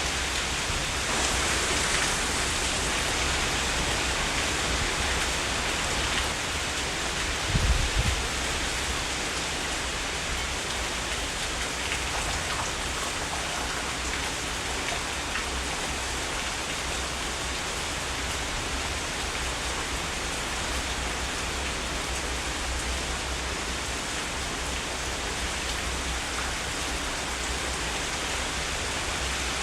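Heavy rain falling steadily, a dense, even hiss of drops, with a brief low thud about eight seconds in.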